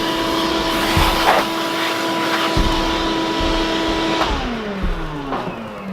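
Vacuum cleaner running with a steady whine and a few low knocks as the nozzle picks up drilling debris. Just after four seconds in it is switched off, and its pitch falls as the motor spins down.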